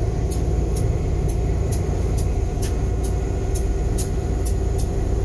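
1951 locomotive's diesel engine running with a steady low rumble, heard from inside the locomotive, with a light tick repeating about twice a second.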